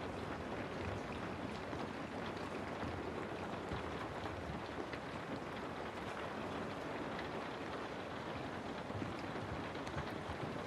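Steady rain falling on a house, a dense even patter of many small drops.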